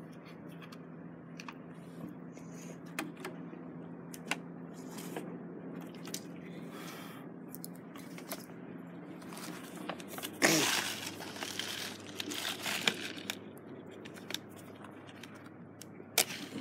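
Close handling of crinkly packaging: scattered rustles and small clicks, with one louder burst of rustling about ten seconds in that lasts a second or two.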